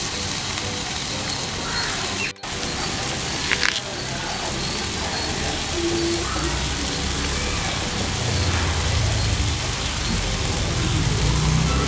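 Marinated tiger prawns sizzling in oil on a tawa, a steady frying hiss. It cuts out briefly a little over two seconds in, and there is a short clack about a second later.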